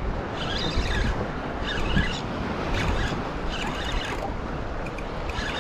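Fishing reel being cranked in short spells while reeling in a hooked fish: a brief whirring rattle about once a second over a low steady rumble.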